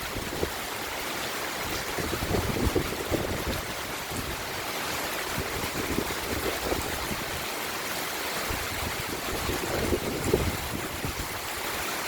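Steady rain falling, a continuous even hiss, with irregular low rumbling underneath.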